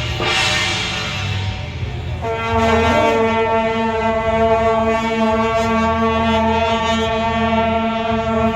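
A noisy din, then about two seconds in a loud horn sounds one long, steady note that holds at the same pitch.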